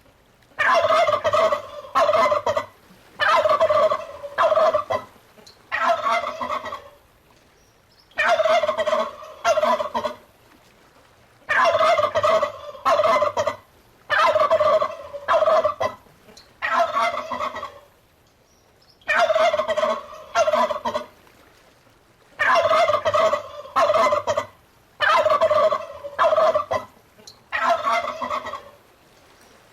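Turkey gobbling over and over: short rattling gobbles in quick runs, with pauses of a second or two between them.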